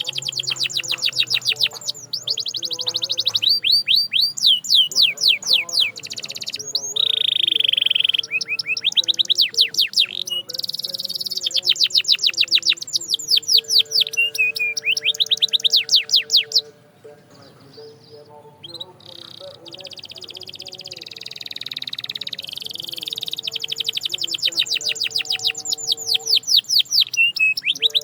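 Canary singing: long rapid trills of fast-repeated high notes, with a short break about two-thirds of the way through before the song resumes.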